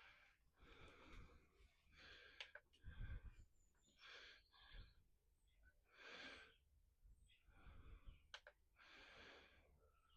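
Near silence, with faint breaths about every second or two and a couple of small clicks.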